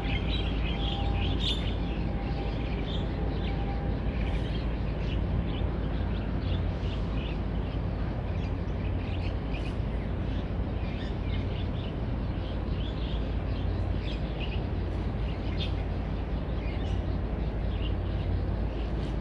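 Scattered bird chirps, many short calls coming irregularly throughout, over a steady low background rumble.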